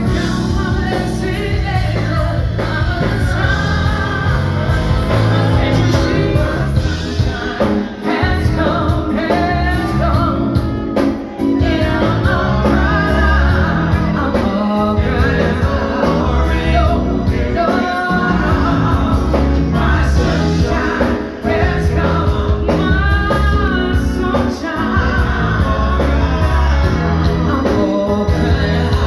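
Live band performance: a woman singing lead over a backing band, with a steady bass and drum beat underneath.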